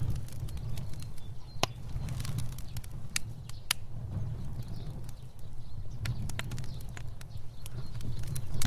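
Fire burning: a steady low rumble of flames with irregular sharp crackles and pops, a few of them much louder than the rest.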